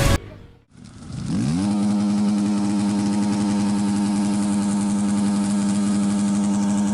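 A motor spinning up, then holding a steady, even pitch for several seconds, with a short dip just after the end.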